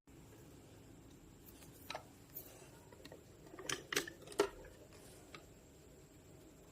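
A few light clicks and knocks from handling the mini electric chopper, most of them bunched together a little past the middle.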